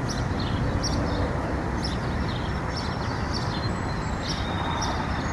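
Short, high bird chirps repeating about twice a second over a steady background rumble.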